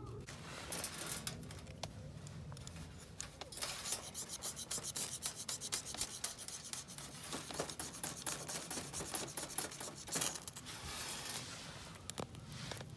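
Continuous rubbing and rustling with many short, sharp clicks and taps, denser in two rushes around the middle and near the end, as of camping gear or fabric being handled.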